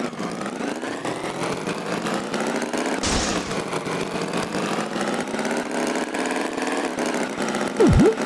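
Animated tractor's engine running steadily as a cartoon sound effect. There is a short whoosh about three seconds in and a quick falling-then-rising whistle near the end.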